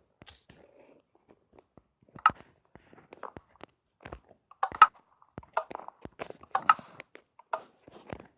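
Irregular sharp clicks and knocks, with a few louder cracks about two, five and seven seconds in.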